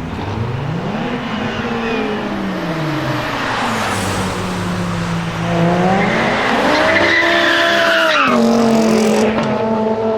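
BMW car engine revving hard with tyres squealing. The revs climb and fall, climb again, then drop sharply about eight seconds in.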